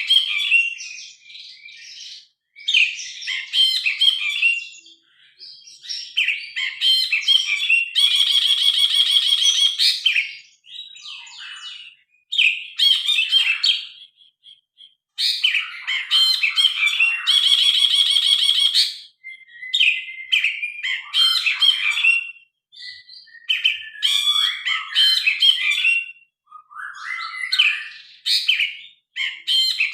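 Brinji kelabu (cinereous bulbul) singing loud, varied chattering phrases separated by short pauses. Twice, at about 8 and 16 seconds in, it gives a long rapid buzzing rattle lasting two to three seconds.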